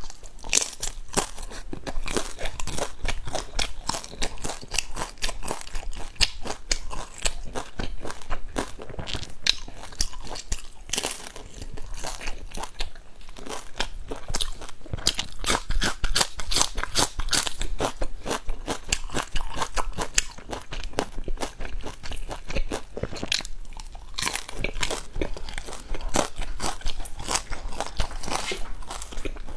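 Close-miked chewing and biting into crisp pan-fried dumplings: a dense run of small crunches and crackles, with a brief lull about three quarters of the way through.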